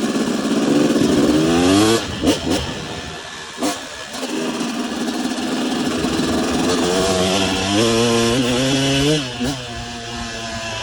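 Motocross bike engine revving up through the gears, its pitch rising twice. Each run ends with a short break about two and a half seconds in and again near nine seconds, as the throttle is rolled off or a gear is changed.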